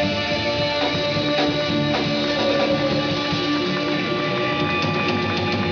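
Live rock band playing an instrumental passage: guitars ringing out held chords over drums, with a few sharp drum hits.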